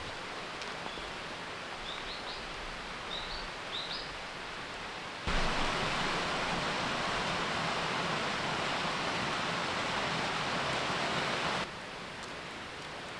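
Steady outdoor hiss with a few faint short high chirps, bird-like, in the first few seconds. About five seconds in, a louder even hiss starts suddenly and runs for about six seconds, then cuts off suddenly.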